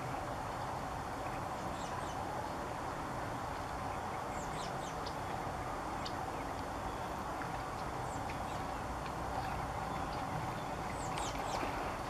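Steady outdoor background noise with a few short, high chirps from small birds scattered through it.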